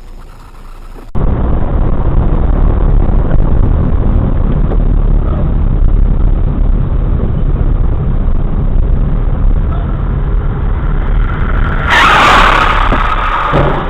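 Steady vehicle engine and road noise, then a loud, sudden crash about twelve seconds in.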